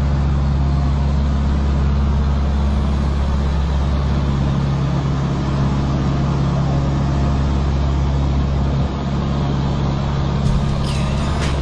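Truck engine running steadily with an even low drone and road noise while driving, with a few faint clicks near the end.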